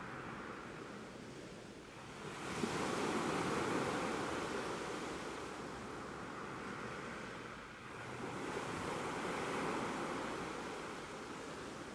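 Ocean waves surging and washing in, with two swells, one about two seconds in and another about eight seconds in, each rising quickly and then slowly fading.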